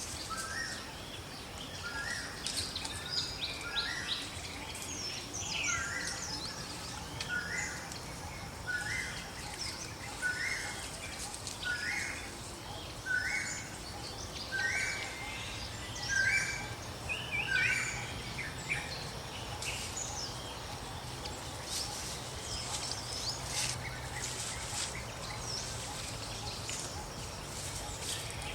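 Birds singing over a steady background hiss. One bird repeats a short call about once a second for most of the first two-thirds, with scattered higher chirps throughout.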